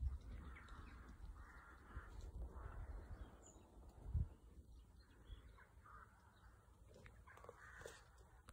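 Faint harsh cawing bird calls, several scattered short calls, over a quiet low rumble.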